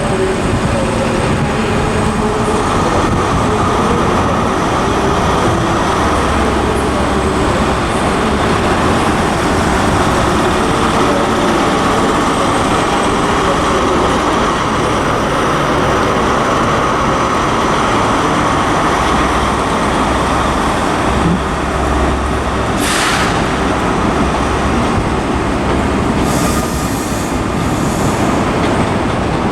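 ScotRail HST with Class 43 diesel power cars pulling out under power: a loud, steady engine drone with a low hum underneath, and a short hiss about 23 seconds in.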